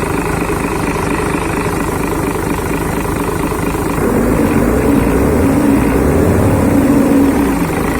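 FIAT 8060.45B six-cylinder truck diesel running. It gets louder and higher about halfway through as it is revved, then settles back toward idle near the end.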